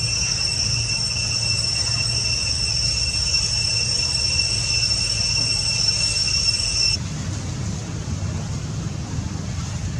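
A steady high-pitched drone over a low rumble; the drone cuts off suddenly about seven seconds in, leaving only a low rumbling noise.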